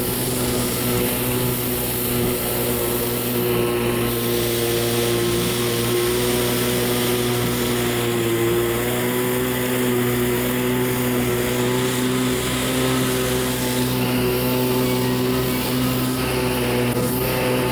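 Kawasaki 650SX stand-up jet ski's two-stroke twin engine running steadily under way, with a hiss of water and wind over it. The engine pitch sags slightly about eight seconds in, then recovers.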